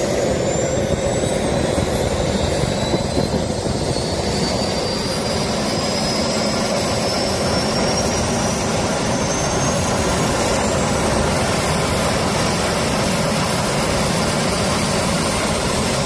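A jet engine running on a test after start-up: a loud, steady rushing roar with a high whine that climbs in pitch over the first ten seconds or so as it spools up, then levels off. It is the test run of an engine suspected of crash damage, and it runs.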